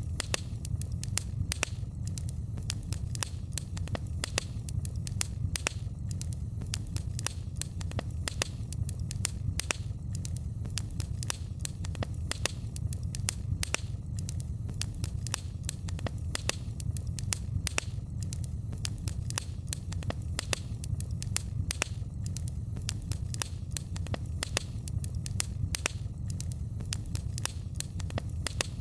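Wood fire in a fireplace crackling steadily, with many sharp, irregular pops and snaps over a low, even rumble of the flames.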